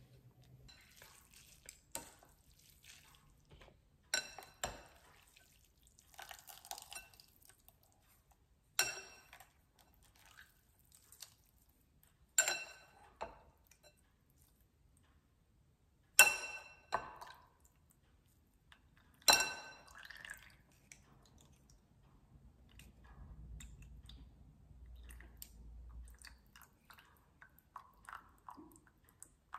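A metal mesh strainer full of noodles knocked against the rim of a ceramic bowl: five sharp ringing clinks a few seconds apart, with soft drips and handling noises between them.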